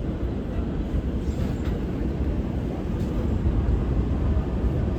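Steady low rumble of a New York City subway train, growing a little louder about three seconds in.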